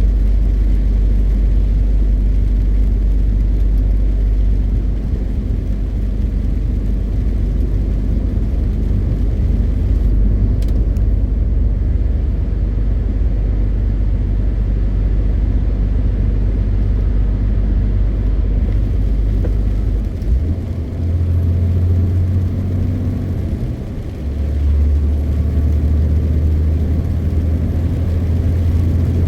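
MAN TGX 520 truck's diesel engine running under way with a loud, steady low drone. About two-thirds of the way in, the drone dips briefly twice and steps up in pitch each time.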